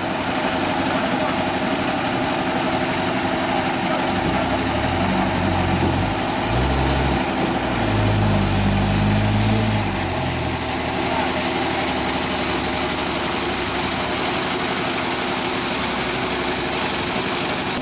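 A sawmill engine running steadily with a constant hum. From about four to ten seconds in, a deeper, shifting low tone comes and goes over it.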